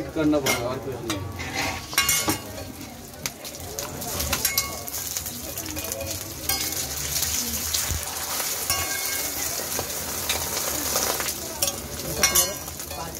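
Egg and flatbread frying on a large flat steel griddle, sizzling steadily, the sizzle growing louder after the egg is poured on about halfway through. A metal spatula and ladle scrape and clink against the griddle now and then.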